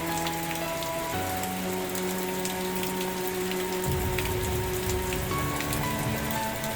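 Steady rain with scattered distinct drops, over soft background music of held notes that change every second or so.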